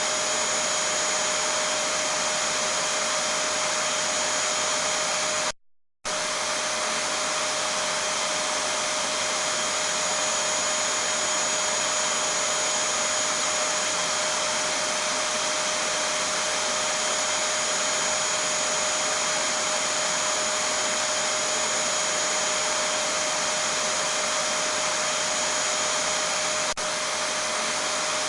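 Vacuum cleaner running steadily, a continuous rush of air with a steady whine in it. The sound cuts out completely for about half a second a little over five seconds in, then carries on unchanged.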